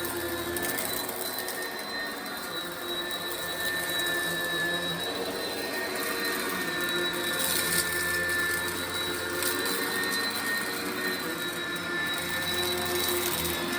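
Oreck XL upright vacuum cleaner running over carpet with a steady motor whine, crunching and crackling as it sucks up kitty litter from the carpet fibres.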